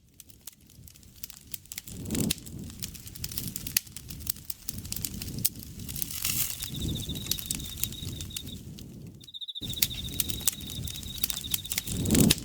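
Campfire crackling and popping with frequent sharp snaps and soft low swells of burning, fading in from silence at the start. About seven seconds in, a steady pulsing insect trill joins it; both cut out briefly just before the ten-second mark, then carry on.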